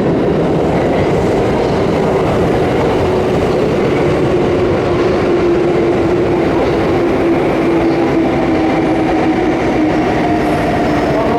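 Kintetsu electric train moving along the platform: a steady, loud rumble of wheels and running gear, with a humming motor tone under it and a higher tone joining in the later part.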